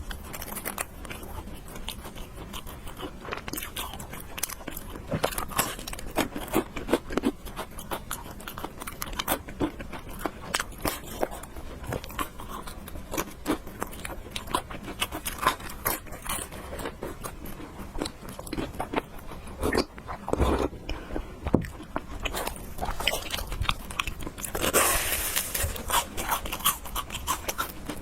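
A person eating close to the microphone: chewing and biting spicy noodles and fried eggs, with many short clicks and mouth smacks throughout and a longer, louder noisy stretch near the end.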